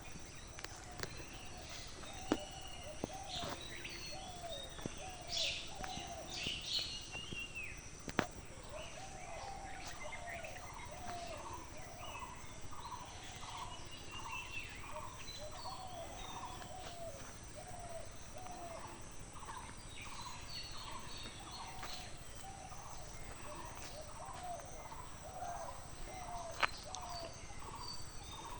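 Countryside birds calling: a long series of short, repeated mid-pitched notes, about two a second, with higher chirps and twitters in the first several seconds, over a steady background hiss. A few sharp clicks stand out, one near the end.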